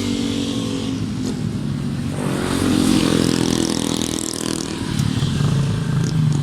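A motor vehicle's engine running close by on the road, its pitch shifting as it passes, louder for a stretch in the middle.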